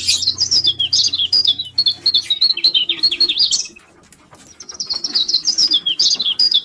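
Pet lovebirds chirping in quick, high twittering bursts, with a short lull of about a second midway before the chirping picks up again.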